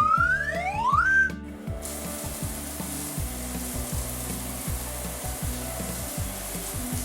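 Two quick rising whistle glides in the first second, then a steady spraying hiss like a car-wash water jet, over a bouncy cartoon music bed.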